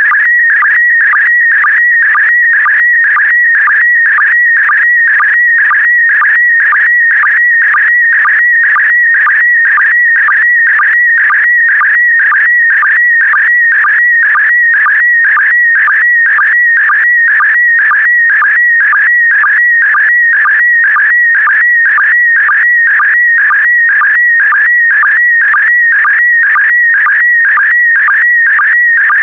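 PD120 slow-scan television (SSTV) image signal: a loud, shrill warbling tone that dips briefly about twice a second, each dip a sync pulse marking the start of the next pair of image lines.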